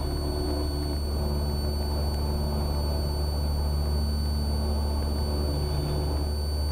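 Cessna 172R's four-cylinder Lycoming engine and propeller droning steadily at climb power just after a short-field takeoff, heard inside the cockpit. A thin, steady high-pitched tone runs over the drone.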